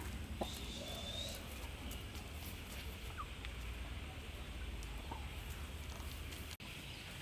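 Chickens clucking here and there over a steady low hum, with a brief dropout near the end.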